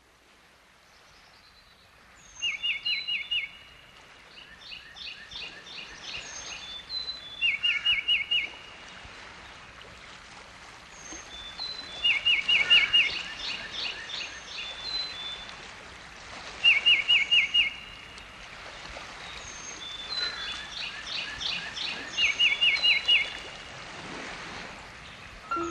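Birdsong fading in: one bird repeats a short phrase of about five quick notes every four to five seconds, with other birds chirping higher, over a steady background hiss like a nature soundscape.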